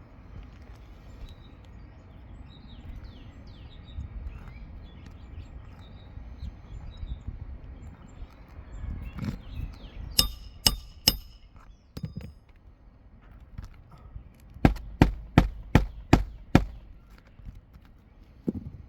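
Hammer striking a roof snake to nail down a replacement asphalt shingle: three quick blows about ten seconds in, then a run of six blows, about two a second, near the end, each with a short metallic ring.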